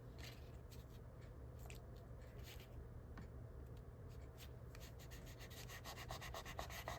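Faint rubbing and light rustling of cardstock being slid into place and pressed down by hand, with a few small ticks of paper against the table, over a low steady hum.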